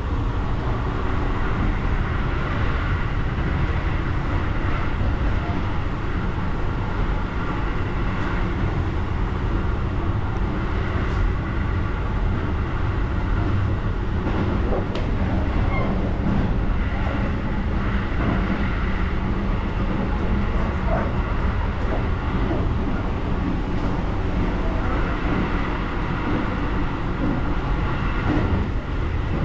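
Seibu 001 series Laview limited express running, heard from inside the car's vestibule: a steady low rumble of the moving train, with a couple of light clicks about halfway through.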